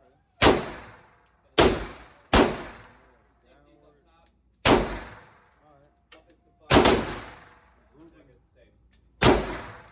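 Six single gunshots fired at uneven intervals: three close together in the first two and a half seconds, then three more spread out. Each shot rings off for about a second.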